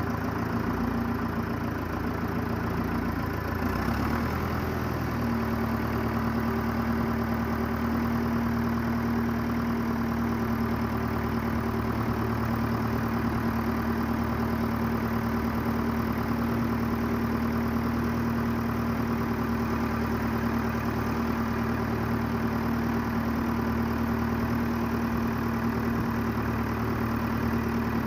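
An engine running steadily. About four seconds in its note shifts up a little, then holds level.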